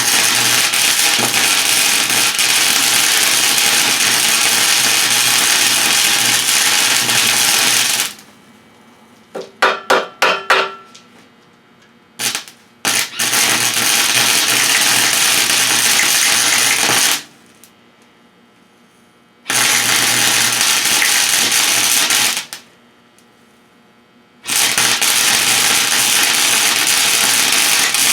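Electric welder laying welds on a steel exhaust hanger bracket: four runs of steady hissing welding noise with a low hum, the first about eight seconds long and the others about three to four seconds each, with pauses between them. A quick cluster of sharp clicks comes about ten seconds in.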